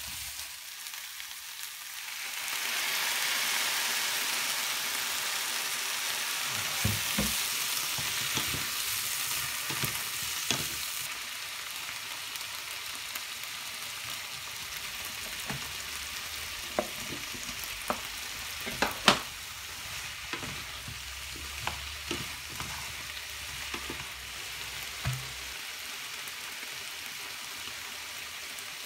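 Eggplant, onion and green onion sizzling in a hot frying pan, the sizzle growing louder about two seconds in. A spatula knocks and scrapes against the pan now and then as the vegetables are stirred.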